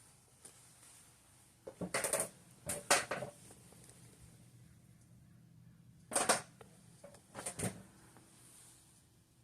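Modern Fan Company Cirrus ceiling fan with a K55-type motor running on low, with a steady faint hum. Four short bursts of clicking and clatter come about two, three, six and seven and a half seconds in.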